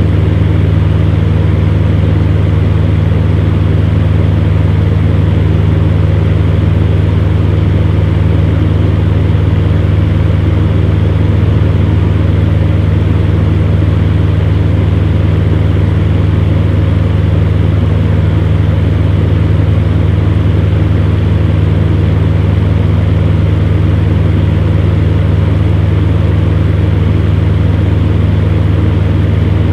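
Electric fan heater running steadily: a constant low motor hum under an even rush of blown air, with no change.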